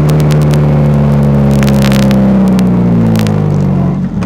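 Rally car's engine heard from inside the cabin, running at steady low revs and then dropping and cutting back about four seconds in as the car slows to a crawl. A few sharp clicks sound over it.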